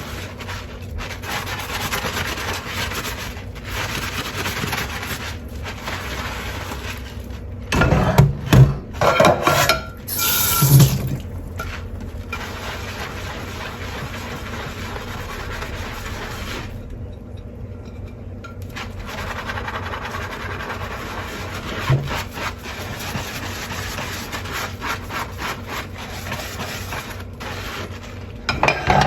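Dishes being hand-washed at a sink: steady scrubbing and rubbing over running water, with a run of louder clatters of dishware about eight to eleven seconds in and a single knock later on.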